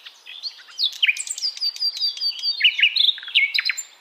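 A songbird singing a fast, varied song of chirps and whistled slurs, with a quick run of repeated high notes in the middle; it grows louder about a second in.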